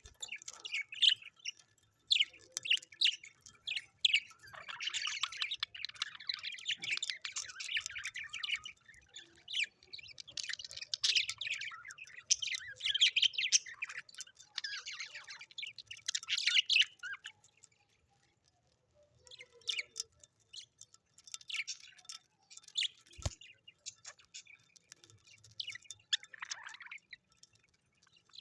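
Birds chirping and chattering in quick, high notes, dense and busy at first, then thinning out to scattered calls for the last third. A single sharp click stands out partway through the quieter stretch.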